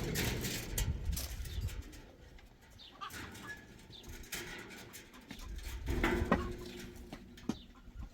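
Animal calls: a pitched call with a few overtones about six seconds in, among scattered knocks and rustles.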